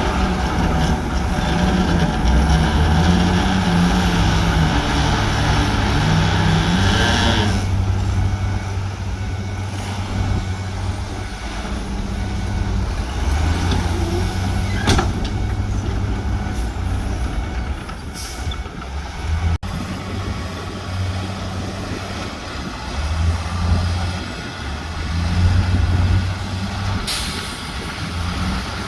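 Heavy diesel earthmoving machinery, bulldozers and dump trucks, running steadily. The first seven seconds or so are louder and noisier, and short hisses come about two-thirds of the way through and near the end.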